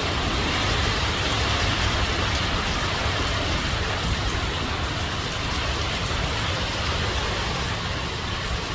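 Heavy, steady wind from an approaching hurricane blowing through the yard, with a low rumble of the wind buffeting the microphone.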